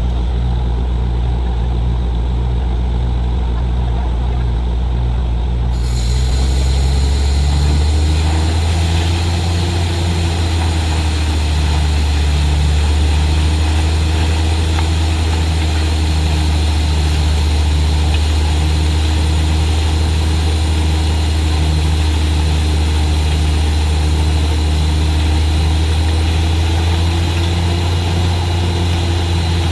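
Heavy diesel engine of a borewell drilling rig running steadily. About six seconds in it gets a little louder and a higher hissing layer joins it, as the rig takes on more load.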